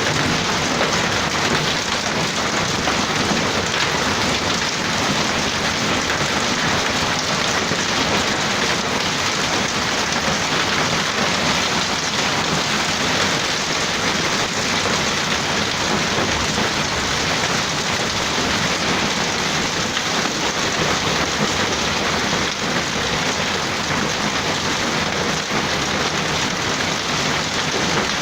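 Hail and heavy rain pelting down steadily, a dense continuous clatter of countless small impacts.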